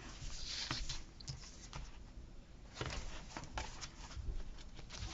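Paper sticker sheets and planner pages being handled: soft rustling with scattered light taps and clicks, busiest about half a second in and again about three seconds in.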